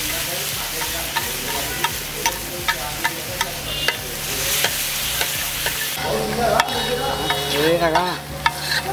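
Mutton frying in ghee and gravy on a flat tawa griddle, sizzling steadily, while a metal spatula stirs and strikes the griddle in quick regular clicks, about two or three a second.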